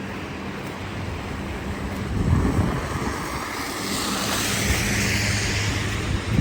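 City street traffic: a vehicle's engine hum with tyres hissing on a wet, snowy road, the hiss swelling as a vehicle passes about four to five seconds in.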